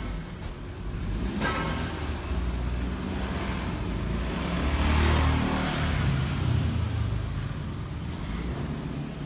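Motor vehicle engines and road traffic running steadily, with a vehicle passing louder about five seconds in.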